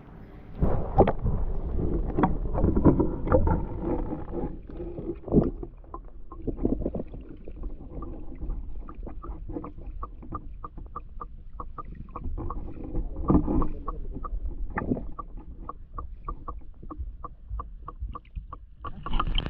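Water heard through a camera microphone dipped under the surface: muffled low rumbling and sloshing with irregular knocks. Past the middle comes a steady series of sharp clicks, about three a second.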